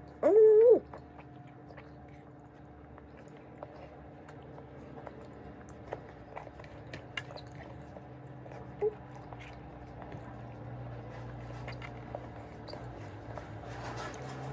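Close-up chewing of food eaten by hand: soft mouth clicks and smacks scattered over a steady low hum. Just after the start comes one short, loud voiced sound from the eater as she takes a bite.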